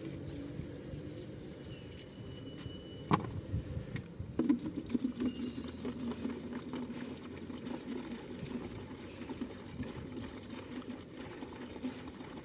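Pigeons and small birds feeding on scattered food: a continuous patter of small irregular taps, with two sharper knocks a few seconds in and a few faint high chirps.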